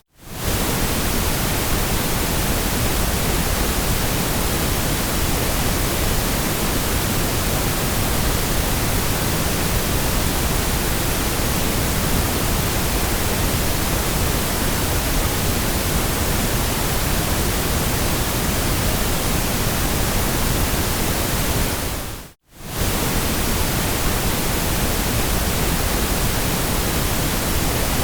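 Steady hiss of generated white noise, even across low and high pitches. It dips briefly to silence right at the start and again about 22 seconds in, then resumes.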